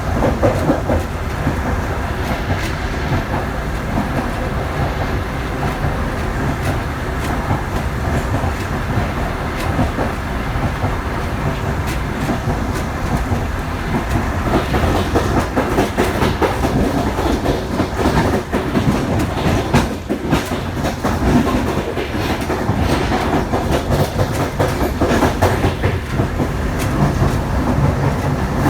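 Passenger train running on the rails, a steady rumble with the wheels clicking over rail joints, the clicks coming thicker from about halfway through.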